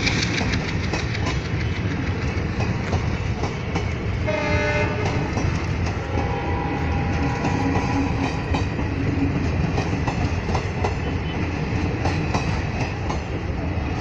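Indian Railways passenger coaches rolling past with a steady rumble and wheel clatter on the rails. About four seconds in, a horn sounds briefly, for about a second.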